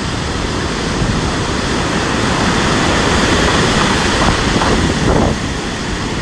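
Heavy storm surf breaking and rushing, with strong wind buffeting the microphone. The rush builds for a few seconds and eases about five seconds in.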